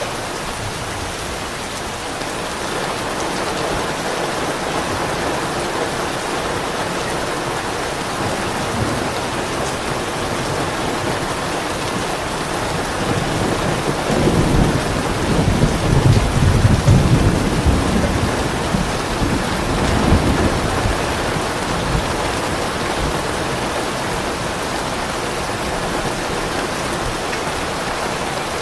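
Steady rain hissing, with a low rumble of distant thunder that swells about halfway through and rolls away again a few seconds later.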